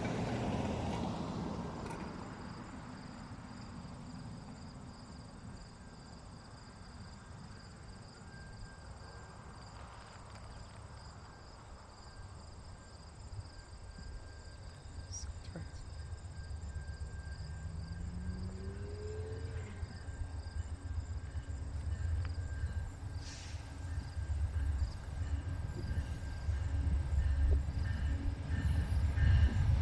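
Insects trilling steadily, with a low rumble that grows steadily louder through the second half as a train approaches.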